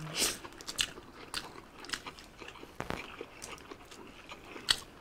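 Mouth sounds of eating chicken biryani by hand: chewing, biting and lip smacks, heard as an irregular string of short clicks, with one sharper smack near the end.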